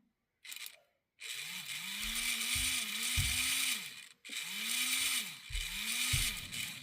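Small electric motor and gear train of an HO 0-10-0 model locomotive running in two spells, with a gritty whir. Its hum rises and falls in pitch over and over as the speed changes. The gears have just been greased with lithium grease.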